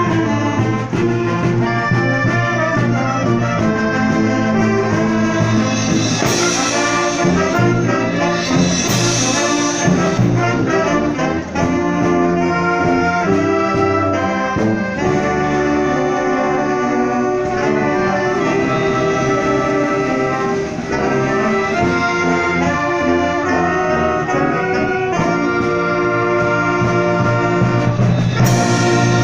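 Symphonic wind band playing, with trombones and trumpets prominent over sustained chords. Three bright crashes, about six seconds in, about nine seconds in and near the end, stand out above the band.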